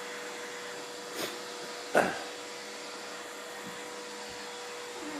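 Vacuum cleaner running steadily, a constant whine over its airflow noise, with two brief knocks: a light one about a second in and a louder one about two seconds in.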